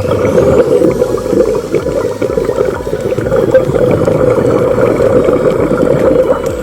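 Scuba divers' exhaled bubbles churning and gurgling, heard underwater. The sound is steady, loud and muffled, with little high end.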